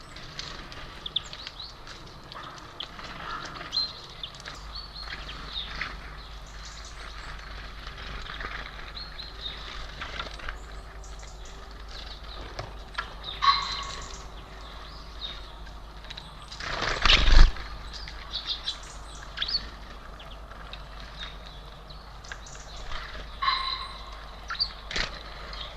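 Small birds at a feeder chirping and calling in short, scattered notes, with one loud thump about two-thirds of the way through.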